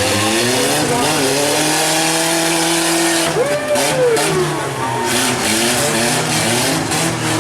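Several demolition derby truck and van engines revving, their pitch rising and falling, over a steady low engine drone and crowd noise.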